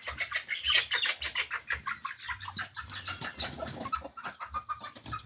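A group of chickens clucking and squawking in a dense run of short, rapid calls, thinning out near the end, with a few low thuds underneath.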